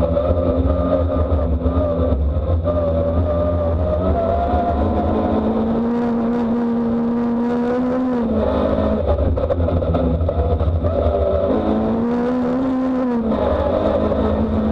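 Car engine driving hard on a gravel road. Its pitch climbs steadily and drops sharply about eight seconds in, then climbs and drops again near the end. Underneath run a heavy rumble of tyres on gravel and scattered ticks of stones.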